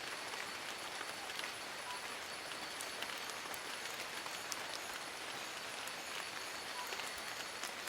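Steady rain falling on forest leaves: a continuous patter with many individual drops ticking sharply, and a faint steady high-pitched tone underneath.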